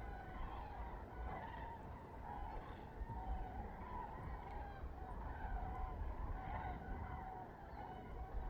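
A flock of common cranes calling in flight, many overlapping trumpeting calls throughout, over a steady low rumble.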